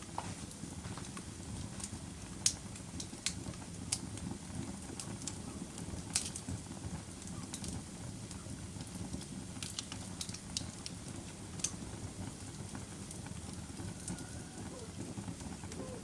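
Wood fire burning in a fireplace: a steady low rumble of flames with irregular sharp crackles and pops, a dozen or so scattered unevenly.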